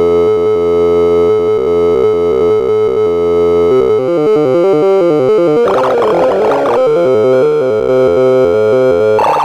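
Sorting-algorithm sonification: synthesized tones step rapidly in pitch as array values are compared and swapped. The first sort is probably a quicksort, in the uploader's words. About six seconds in, the sound turns into a denser flurry of overlapping, higher tones.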